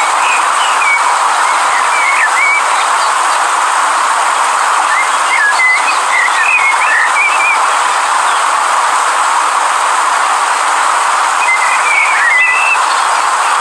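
Steady rush of river water, with a bird's quick chirping calls near the start, in the middle, and again near the end.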